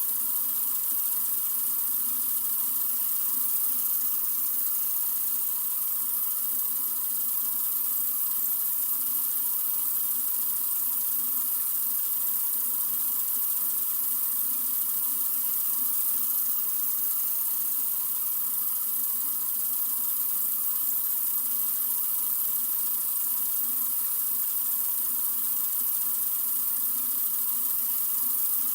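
Sink faucet running in a steady, unbroken stream: an even, hissy water sound.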